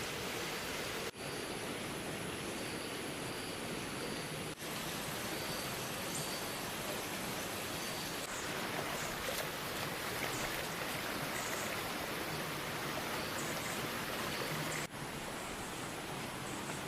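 Steady rushing of flowing water, breaking off for an instant a few times where shots change.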